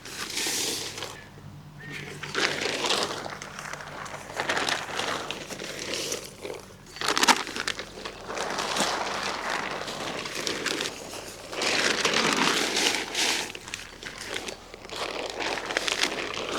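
Irregular rustling and crinkling of material being handled, in uneven bursts with a sharper click about seven seconds in.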